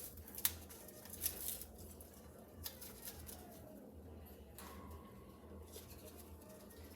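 A parrot picking at a home-made foraging toy: a few sharp clicks and crackles of beak on cardboard and bottle caps in the first three seconds, over a low steady room hum.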